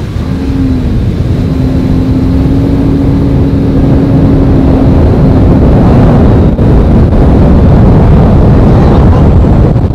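Sea-Doo RXT 300 personal watercraft's supercharged three-cylinder engine running under way on the water, loud and getting louder over the first few seconds, with a steady hum that holds through the first two-thirds and then fades into the rushing noise.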